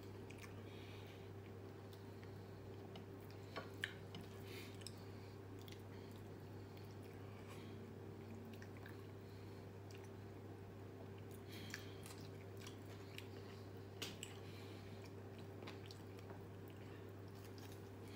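Quiet chewing and wet mouth sounds of a person eating rice by hand, with a few sharper clicks and crunches about 4 and 14 seconds in, over a steady low hum.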